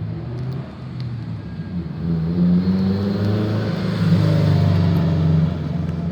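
A car engine running close by with a low, steady drone, getting louder about two seconds in and easing off near the end as the car moves past.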